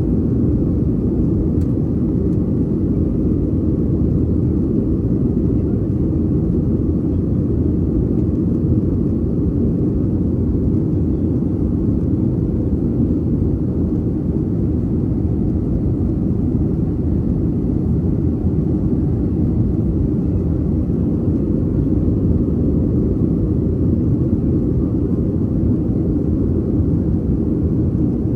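Steady low engine and cabin noise inside a Boeing 737-800 airliner, heard from a window seat in economy, unchanging throughout.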